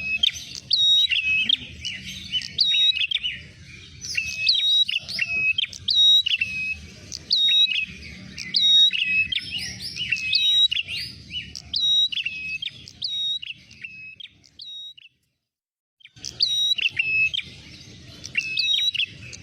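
Prenjak merah calling in a rapid run of sharp, repeated chirps, with several birds or overlapping calls heard together as a lure recording. The calls stop completely for about a second roughly fifteen seconds in, then resume.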